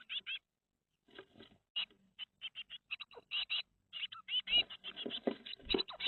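Blue tits calling: a rapid series of short, high chirps, sparse at first and growing busier and louder toward the end, mixed with scratching and a few soft bumps near the end.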